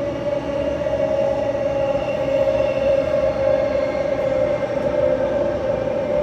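Transperth B-series electric multiple unit heard from inside the carriage: a steady electric whine over a continuous rumble.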